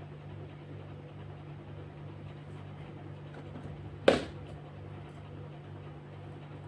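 A single sharp knock or click about four seconds in, over a steady low hum.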